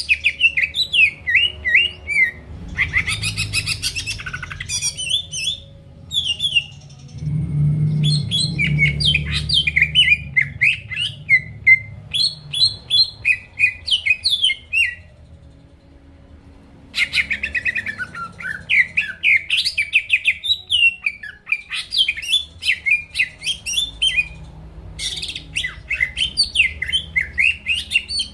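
Green leafbird (cucak ijo) singing continuously: fast, varied phrases of sharp gliding whistles and chirps with a brief rattling stretch, broken by short pauses.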